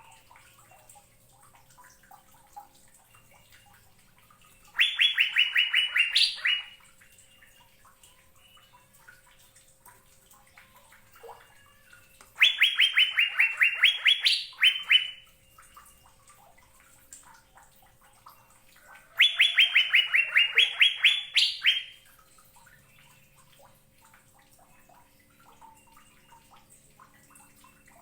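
Asian fairy-bluebird (cucak biru) singing three loud phrases several seconds apart. Each phrase is a rapid run of about a dozen notes that dips slightly and then climbs to a higher closing note. Faint twittering continues between the phrases.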